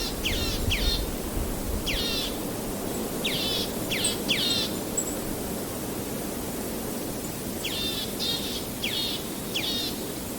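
A river running steadily. Over it a bird calls in short series of quick, high, down-slurred notes, several times.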